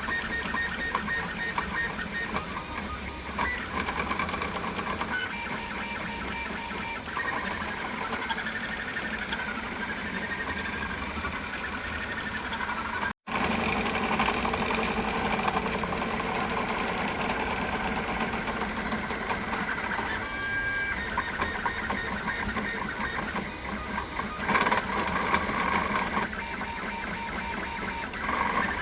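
3D printer's stepper motors whirring and whining as the print head moves, their tones stepping and gliding up and down in pitch. The sound drops out for an instant about halfway through.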